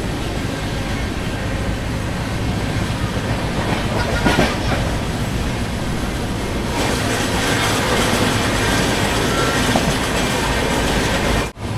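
Passenger train running at over 100 km/h, heard from an open doorway: a steady rumble of wheels on rail with rushing wind and a sharp clatter about four seconds in. From about halfway on, the added rush of another train passing close by on the next track.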